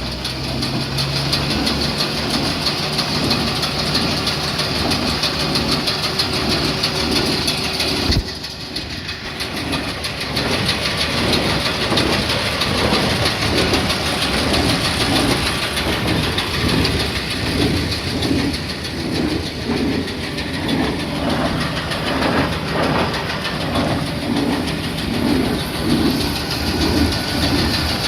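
Massey Ferguson 2150 medium square baler running under tractor power, its mechanism keeping up a regular, repeating clacking rhythm over the drone of the tractor engine. A sharp knock about eight seconds in is followed by a brief dip in the sound.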